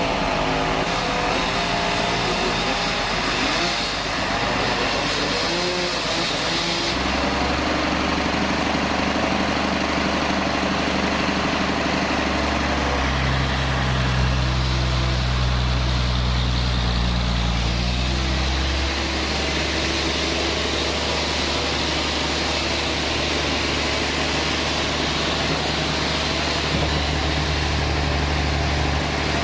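Sawmill band saw machinery running: a loud, steady motor noise whose low hum shifts to a new pitch several times, as the load on the drive changes.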